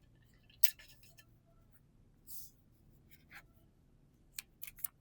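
Pokémon trading cards being handled: a few sharp clicks and taps and one brief swish as cards are slid and flipped, with three quick clicks close together near the end.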